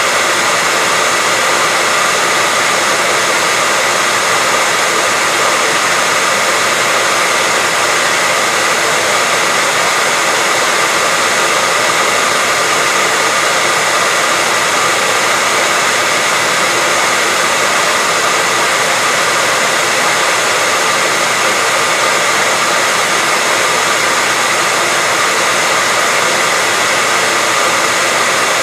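Hair dryer blowing at a constant setting: a steady, even rushing noise with a faint whine, unchanging throughout.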